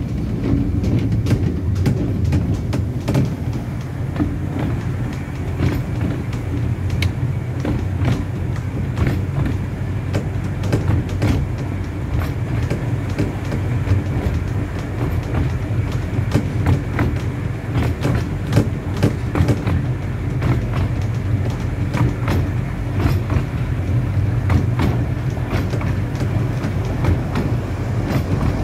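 A 15-inch gauge miniature railway train running, heard from aboard its coaches: a steady low rumble with many sharp, irregular clicks of the wheels over the track.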